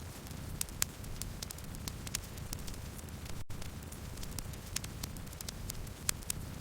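Wood campfire crackling: irregular sharp pops and snaps over a steady low rumble of the flames, with the sound cutting out for an instant about halfway through.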